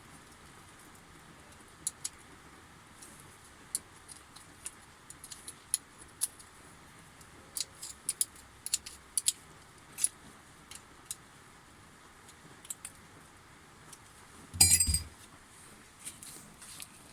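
Small metal parts and tools clicking and clinking irregularly while a replacement motor is fitted into a sheep shearing machine, with one louder metallic clank that rings briefly near the end.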